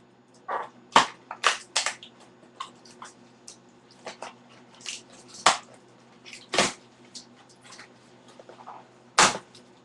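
Sneaker box packaging being wrestled open and pulled apart by hand: an irregular string of sharp crinkles, rips and knocks, each lasting a fraction of a second.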